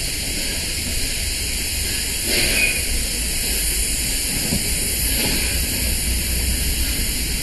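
Heritage passenger coaches of a steam-hauled train rolling slowly past on the rails, with a steady hiss and low rumble, and twice a brief louder clatter from the wheels.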